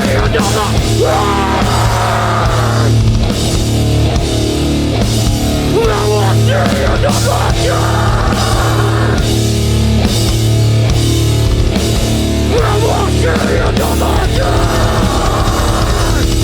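Hardcore punk band playing live at full volume: heavy distorted guitars, bass and a pounding drum kit.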